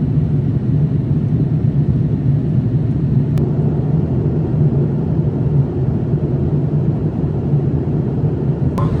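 Steady airliner cabin noise inside a Boeing 787-8 in flight: an even, low rumble of engine and airflow noise. A faint click comes about three seconds in, and another just before the end.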